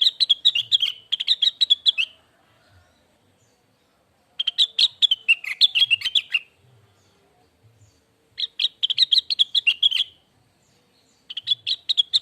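Cucak wilis leafbird singing in phrases of quick, high twittering notes, each phrase one to two seconds long, with pauses of about two seconds between them.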